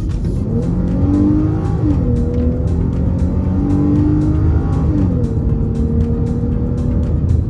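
2023 Chrysler 300's V6 engine pulling under acceleration, its note climbing and then dropping at an automatic upshift about two seconds in and again about five seconds in, then running steady.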